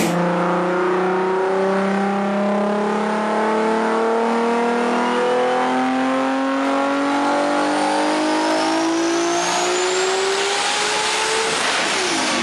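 Mk4 Toyota Supra engine under a long, steady wide-open pull on a chassis dynamometer, its pitch climbing evenly, with a thin whine rising alongside. Near the end the revs drop away as the throttle closes.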